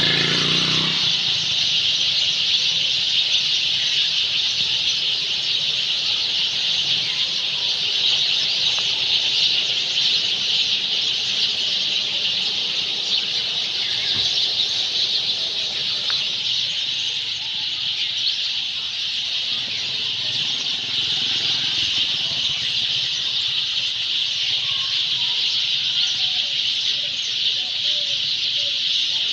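A flock of sparrows chirping together in their nesting trees as they settle for the night, a dense, unbroken chatter of many overlapping high chirps at a steady level.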